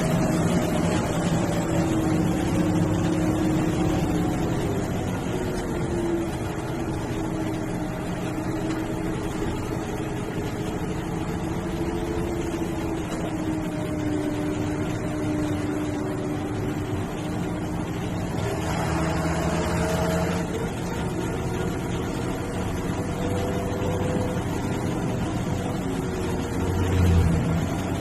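MSRTC sleeper/seater bus's diesel engine running on the road, its pitch slowly rising and falling as engine speed changes. A brief hiss comes about two-thirds of the way through, and a short louder low boom comes near the end.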